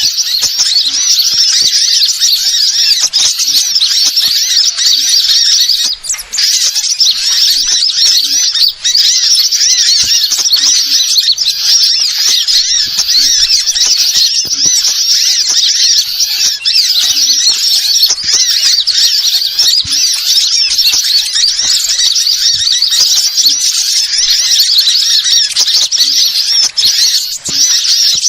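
Continuous, rapid, high-pitched twittering of small songbirds, a bird-lure call track, with brief dips about 6 and 9 seconds in.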